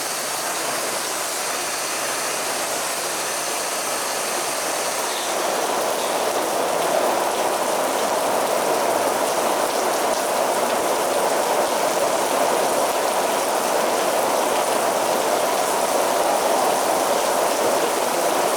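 Heavy rain falling in a steady, dense hiss, growing a little heavier about a third of the way in.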